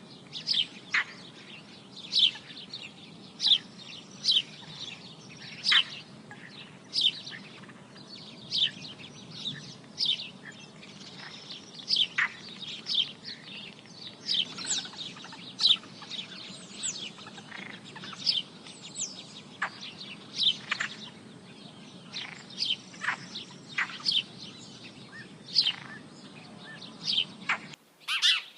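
Sparrows chirping: a busy, irregular run of short, sharp, downward-sliding chirps. Underneath is a steady low background noise that cuts off abruptly near the end.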